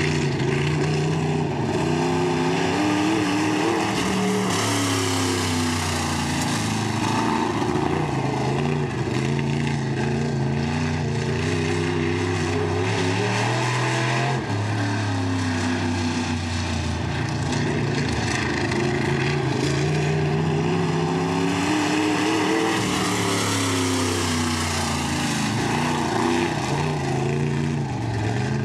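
B-Mod dirt-track race car engines running laps, the pitch rising and falling again and again every few seconds as the cars speed up and slow, with more than one engine heard at once at times.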